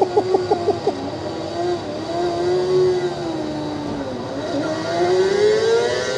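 Racing motorcycle engine sound from a TT-lap riding simulator, played over speakers: a rapid run of short pulses in the first second, then the engine note rising and falling as it revs.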